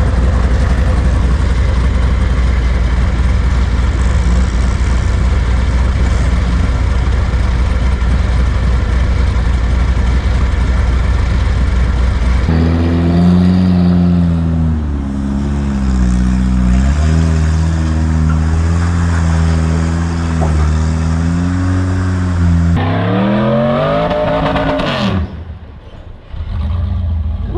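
Full-size rock-crawling buggy's engine working over rocks: a steady low rumble, then revving up and down again and again under load, with a sharp climb in revs near the end that drops away suddenly.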